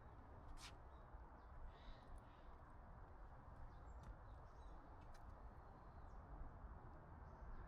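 Near silence: quiet outdoor forest ambience with a few faint, distant bird calls and a single sharp click about half a second in.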